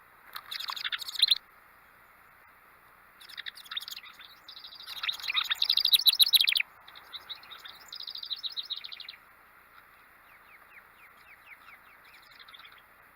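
Songbirds chirping in several bursts of rapid, high notes, the loudest a few seconds in, followed near the end by fainter, quick downward-sliding calls.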